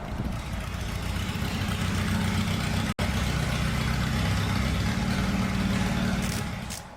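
SUV engine running steadily at idle, with a brief cut-out about three seconds in; it fades away near the end.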